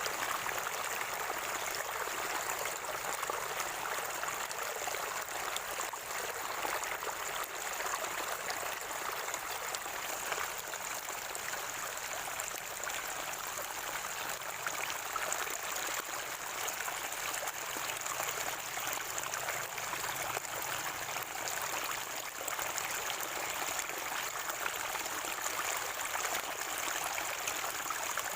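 Natural spring water flowing and gurgling steadily, like a small stream.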